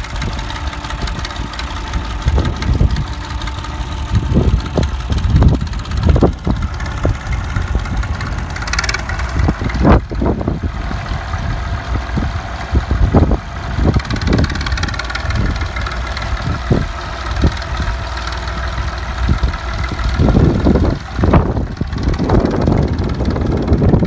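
Allis-Chalmers tractor engine idling steadily, with irregular low thumps over it.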